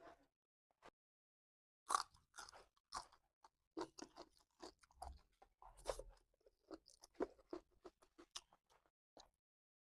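Close-miked mukbang eating: a person chewing duck rica-rica, with irregular short mouth clicks and smacks that start about two seconds in after a brief pause.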